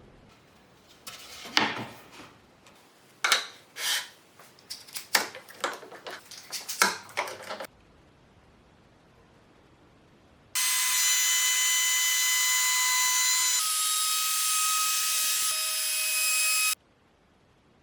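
Wood being worked with a string of irregular scraping and knocking strokes. After a pause, a high-speed power tool runs for about six seconds, a steady whine over hiss whose pitch shifts partway through, then stops abruptly.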